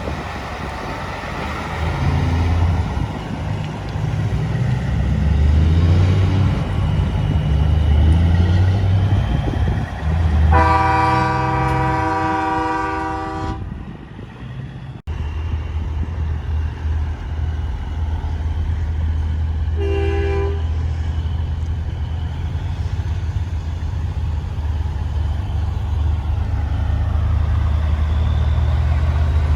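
Heavy truck engines running with a low rumble, then a truck air horn blown in one long blast of about three seconds. After a sudden cut, a steady low engine idle with a brief horn toot.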